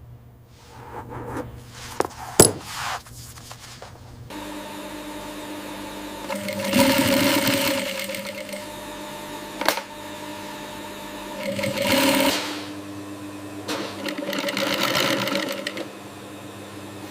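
Sewing machine stitching leather in runs of a second or two over a steady machine hum, after a few light clinks in the first seconds.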